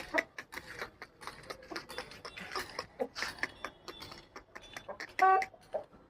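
Irregular scuffs and clicks of an Aseel rooster moving about, with one short pitched call from the bird about five seconds in.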